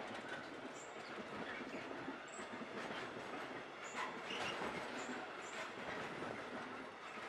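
Freight wagons of a long intermodal train rolling past on curved track: a steady rolling rumble with wheel clicks over the rails and several brief high-pitched squeals from the wheels.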